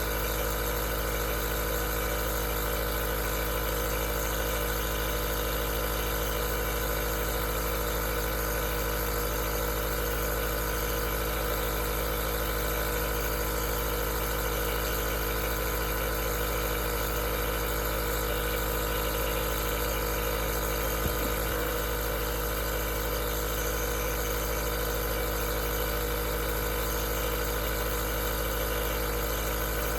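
Aerosol nebulizer's compressor running steadily: a constant motor hum with several fixed tones over an even hiss. One faint tick comes about two-thirds of the way through.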